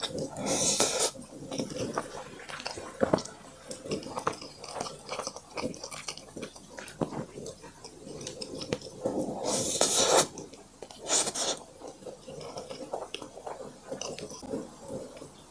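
Close-miked chewing and biting of a person eating, with many small wet clicks of the mouth and a few louder hissy bursts about half a second in and again around ten and eleven seconds.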